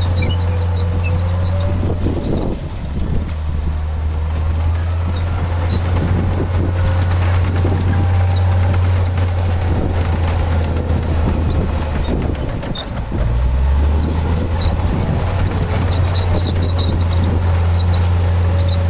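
Heavy diesel engine of earthmoving machinery running with a steady low drone, its note changing briefly about two seconds in and again a little past the middle, with scattered knocks and rattles.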